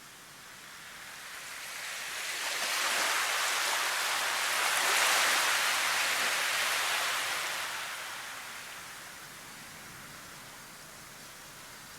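Nature ambience of rushing noise that swells from about a second in, peaks around the middle and fades back by about nine seconds in.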